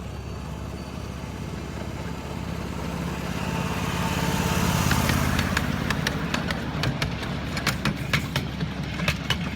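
Miniature railway train running past, its engine-like hum swelling to loudest about halfway, then sharp clicks of wheels crossing rail joints through the second half.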